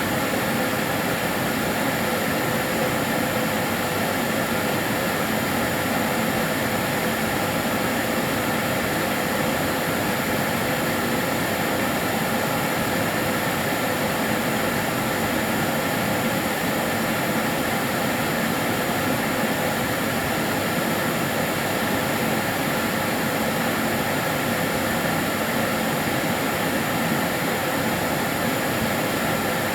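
Karcher DS 6 Premium water-filter vacuum cleaner running steadily: an even rush of air with a few faint steady tones in it, no change in speed.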